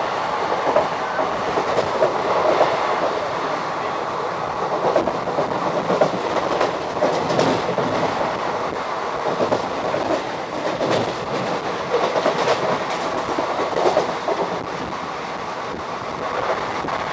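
Passenger train coach running at speed: a steady rumble of steel wheels on rail with irregular clickety-clack of the wheels over rail joints, busier around the middle.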